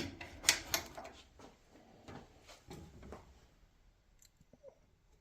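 A few light knocks and clicks from handling the dryer's front panel and screws. The loudest comes about half a second in, and the sounds thin out and fade after about three seconds.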